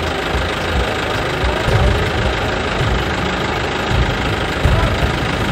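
Engine running steadily, with uneven low rumbling pulses over a constant hiss.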